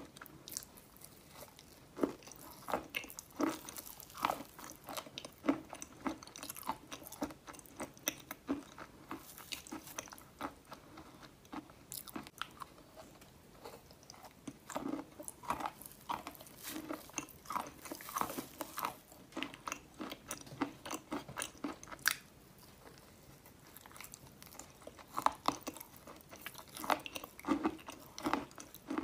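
Close-up biting and crunchy chewing of chalk, a dense run of short crisp crackles with a brief lull about three-quarters of the way through.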